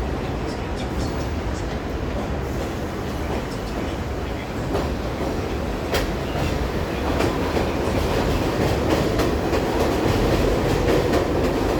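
R62A subway train running along the track, its wheels clacking over rail joints with a steady rumble, growing a little louder in the second half.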